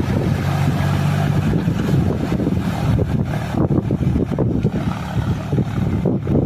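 John Deere tractor's diesel engine running steadily, its low hum clearest for the first second and a half, with wind buffeting the microphone in the later part.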